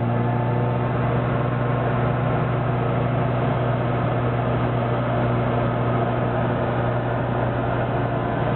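Classic Mini's A-series four-cylinder engine, heard from inside the cabin, running at steady revs under light throttle, with road and wind noise.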